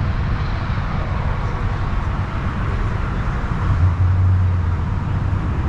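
Car engines idling nearby, a steady low rumble, with a stronger low hum for about a second and a half from a little under four seconds in.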